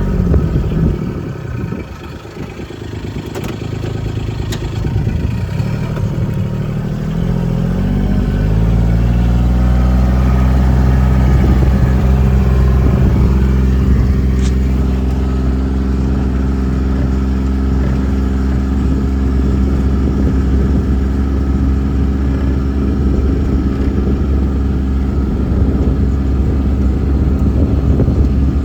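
Motor vehicle engine pulling away, its pitch rising over a few seconds as it picks up speed, then running steadily while driving.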